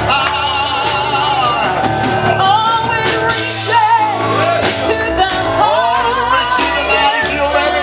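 A live gospel duet singing with vibrato over band accompaniment, with a steady drum beat.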